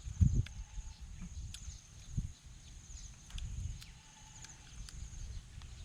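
Close mouth and eating sounds of someone chewing and working through raw blue swimmer crab, irregular and low, with a sharper crack or knock about two seconds in. A steady high-pitched buzz runs behind.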